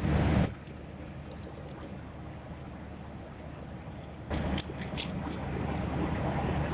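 Airliner cabin noise: a steady low hum with scattered small clicks and rattles, which grows louder with a cluster of clicks a little past the middle.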